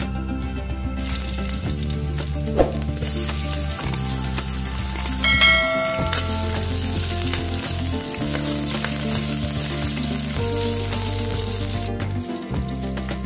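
Sliced onion and garlic sizzling as they fry in hot oil in a pan. The sizzle is loud from about three seconds in and cuts off suddenly near the end. A short bright chime sounds about five seconds in.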